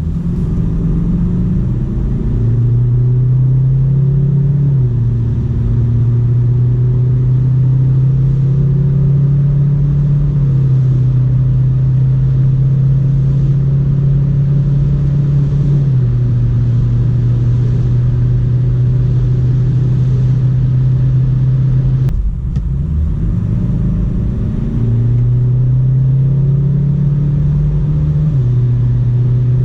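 Hyundai Tucson 2.0 CRDi four-cylinder diesel pulling under full acceleration: a steady, loud engine drone that steps in pitch a few times. About 22 seconds in the sound dips briefly, then the revs climb again and settle back into the drone.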